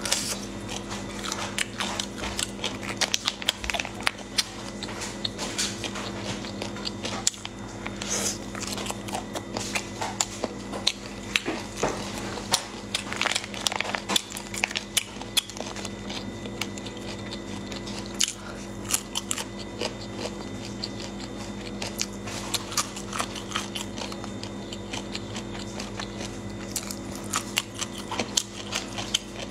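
Close-up crunching and chewing of crunchy 'triangle bone' cartilage in chili oil: many sharp, irregular cracks as the cartilage is bitten and ground between the teeth.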